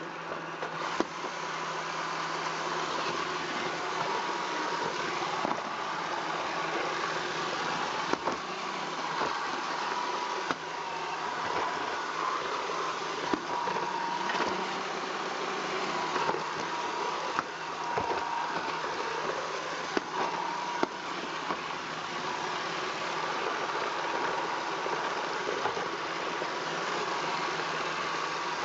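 iRobot Roomba 400-series robot vacuum running: a steady motor whine and hum, with scattered sharp clicks and knocks.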